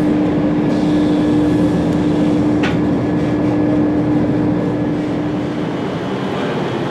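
A train at a station, running with a steady rumble and a strong hum that stops near the end, and a single click about two and a half seconds in.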